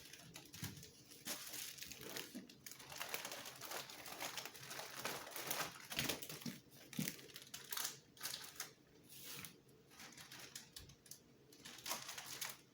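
Plastic packaging crinkling and rustling as small parts are unpacked and handled, with irregular clicks and taps throughout.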